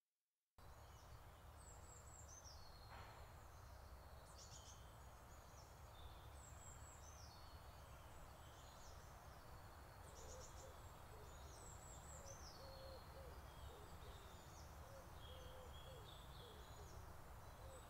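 Faint birds chirping, many short high calls, over a low steady rumble, starting suddenly about half a second in.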